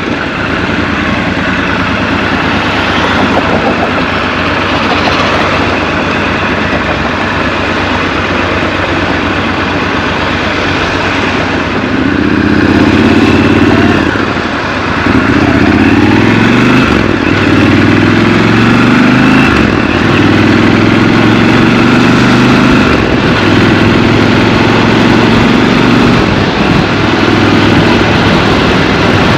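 Triumph Scrambler 1200 XC's 1200 cc parallel-twin engine running at low revs, then, about twelve seconds in, pulling harder with several rises and drops in pitch as it accelerates and shifts gear.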